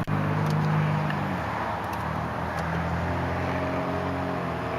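Power seat motor of a 2003 BMW 745i whirring as it tilts the seat back, with a steady hum throughout and a shift in pitch about one and a half seconds in, over the idling 4.4-litre V8.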